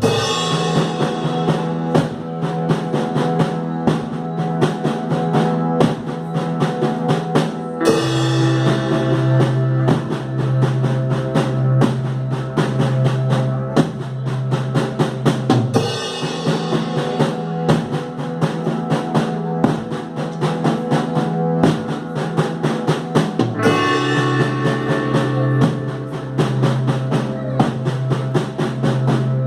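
Instrumental rock jam: a drum kit keeps a steady beat with bass drum and snare under sustained guitar and synthesizer tones. A strong low held note drops out and comes back in sections of about eight seconds.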